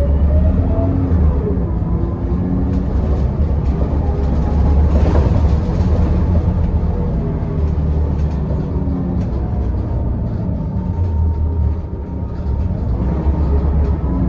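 Scania L94UB bus's nine-litre six-cylinder diesel running under way, with a low steady drone and a short rising whine in the first second as it picks up speed. Light clicks and rattles sound over it throughout.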